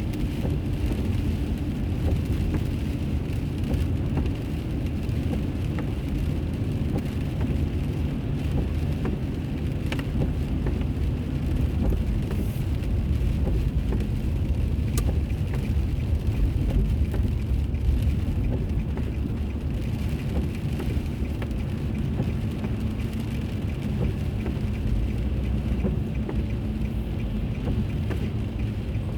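Steady road and engine noise of a car driving, heard from inside the cabin, with a few faint ticks.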